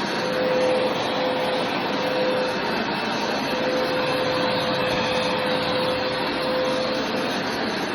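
Hoover carpet cleaner running steadily: a loud rushing of air with a constant hum from the motor.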